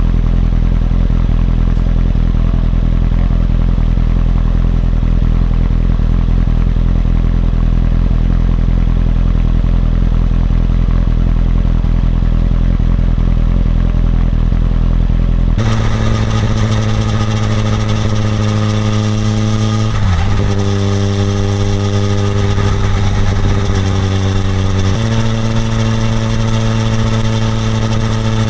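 Suzuki GSX-R1000R inline-four engine running under way at a fairly steady speed, heard from the bike. At first it is a low, steady drone. About halfway through the sound changes suddenly to a clearer engine note, which dips briefly a few seconds later and then settles at a slightly different pitch.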